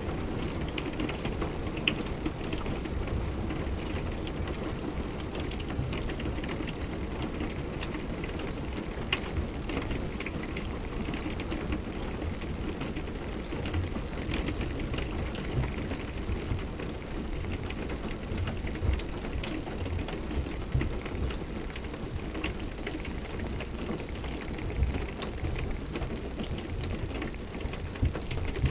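Steady rain falling, an even hiss with many individual drops ticking sharply throughout.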